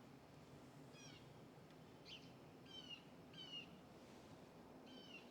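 Faint bird calls: about five short, high chirps spread over a few seconds, over low background noise.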